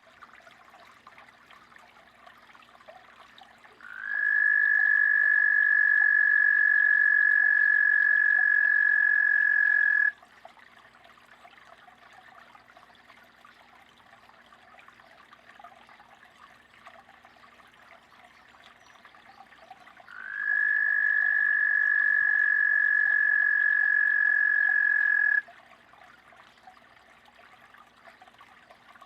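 A frog calling: two long steady calls of about six seconds each, the first about four seconds in and the second about twenty seconds in. Each starts with a brief rise in pitch, then holds one high note and stops abruptly.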